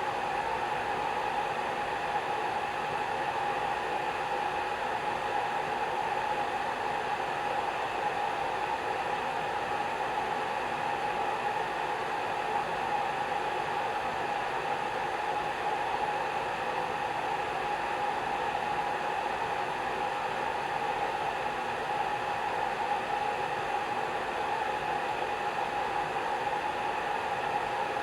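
Hair dryer running continuously at a steady setting: an even rushing of air with a constant motor hum a little below 1 kHz.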